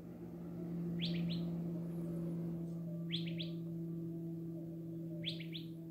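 A bird calling: three quick pairs of short, falling chirps about two seconds apart, over a steady low hum.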